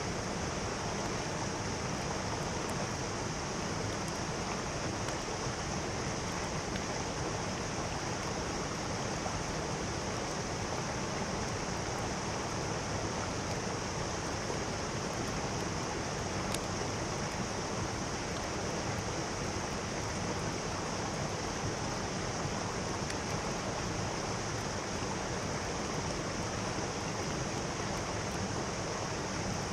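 Mountain stream flowing: a steady, even rush of water with no breaks.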